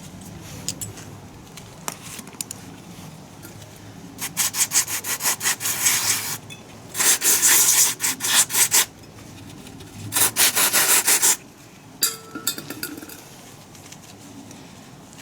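Rapid back-and-forth rubbing strokes by hand on a part, in three bursts of one to two seconds each, starting about four, seven and ten seconds in. A short tonal squeak follows about twelve seconds in.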